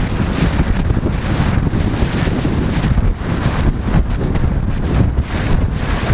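Wind buffeting the microphone of a moving motorcycle, a loud, uneven rumble that goes on without a break.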